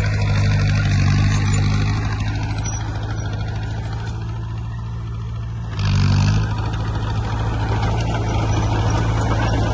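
Heavy diesel engine of earthmoving equipment running steadily under load, easing slightly, then picking up sharply about six seconds in with a brief hiss before settling back into a steady run.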